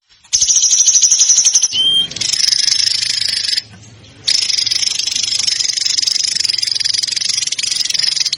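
A songbird's rapid, tightly packed chattering trill of fast repeated high notes, the dense 'tembakan' prized in competition-bird tutor recordings. A short clear whistle comes about two seconds in, and the song breaks off briefly before resuming.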